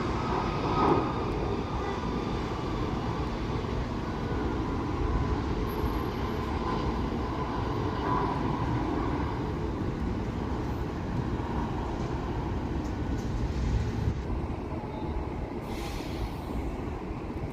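Jet airliner's engines, a steady rumble with a faint whine early on that fades away over the last few seconds.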